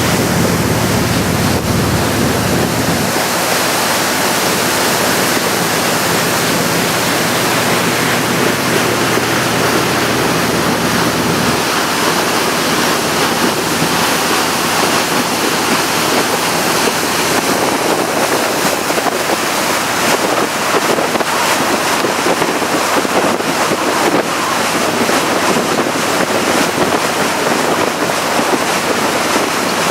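Wind buffeting the microphone and water rushing past a moving tour boat, a loud steady rush, with a low hum that drops away about three seconds in.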